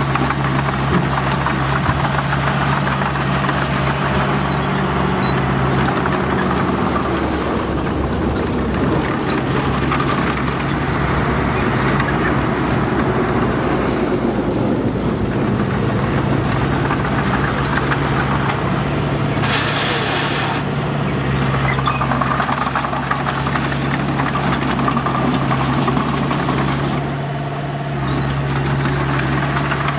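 Bulldozer's diesel engine running steadily, with a constant low engine note under dense mechanical noise. A short burst of hissing noise comes about twenty seconds in, and the sound dips briefly near the end.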